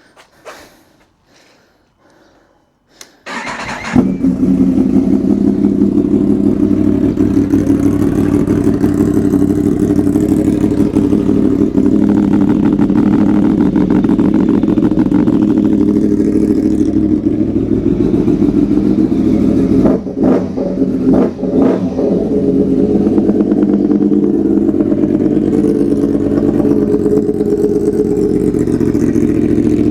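Yamaha MT-10 SP's crossplane inline-four engine started through a newly fitted Austin Racing exhaust: a short burst of cranking about three seconds in, it catches and settles into a steady, loud idle, with a brief unsteady dip about twenty seconds in.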